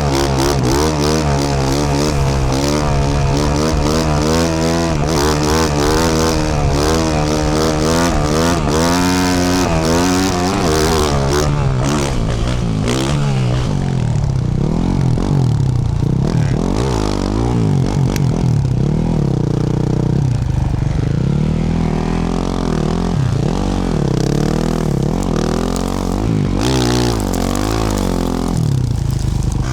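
Yamaha YZ450F's single-cylinder four-stroke engine through a Yoshimura RS-12 exhaust, ridden on a dirt track, its revs rising and falling as the throttle is worked. It runs hard with clattery high revs for the first dozen seconds, then goes on with gentler, slower swells up and down.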